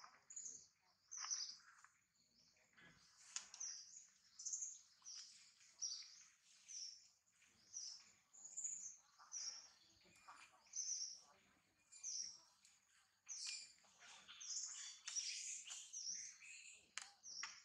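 A bird calling over and over in short, high, slightly falling chirps, about every two-thirds of a second, with fainter birdsong behind.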